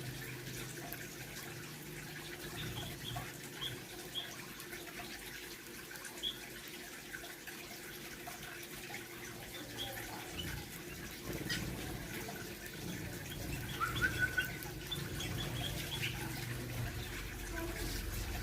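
Small aviary birds, munias and similar finches, giving scattered short high chirps over a steady low background hiss and hum, with a brief cluster of louder calls about two-thirds of the way through.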